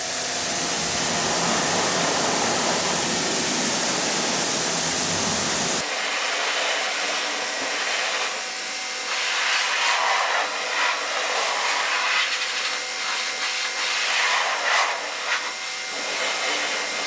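Pressure washer running, its water jet rinsing down a car wheel with a steady spray. About six seconds in the sound changes abruptly, losing its low rumble and turning more uneven, with surges as the jet moves over the surface.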